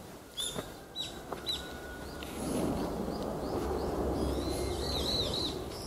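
Small birds chirping: short high calls now and then, then a quick run of arched calls near the end. About two and a half seconds in, a low rushing noise comes up beneath them.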